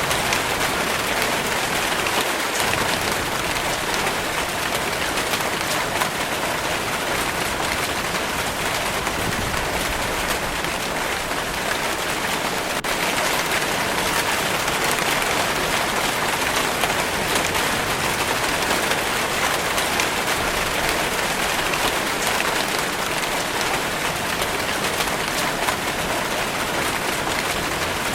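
Steady rainfall, a dense even hiss of drops pattering on a surface with no let-up.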